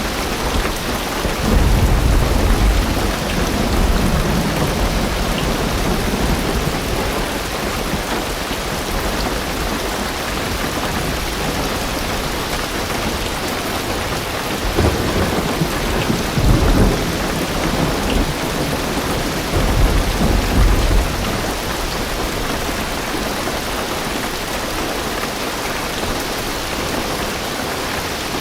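Heavy rain drumming steadily on a car roof and windows, heard from inside the car. Deep rolls of thunder swell up a couple of seconds in and twice more past the middle.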